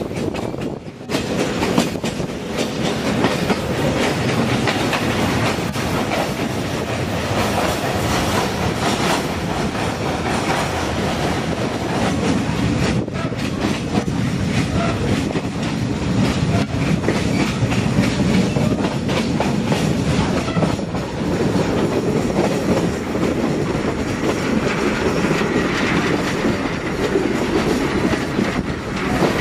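Passenger train running along the track, its wheels and carriages heard through an open carriage window, steady and loud throughout.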